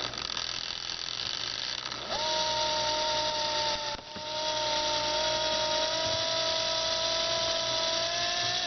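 Power drill running, drilling out paint that has sealed over the center hole of a glass-painted clock face. A steady motor whine joins about two seconds in, breaks briefly near the middle, then rises slightly in pitch before the drill stops suddenly.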